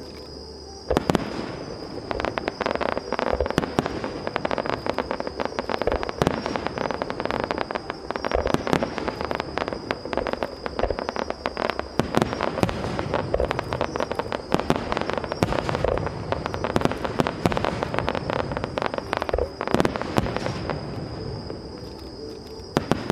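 Aerial fireworks bursting: a dense, continuous crackle and popping of shells with heavier bangs every few seconds, starting about a second in and dying down near the end.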